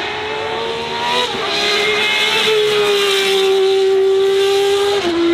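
Race car engine running hard at high revs, with two sudden drops in pitch, about a second in and near the end, as it changes up a gear.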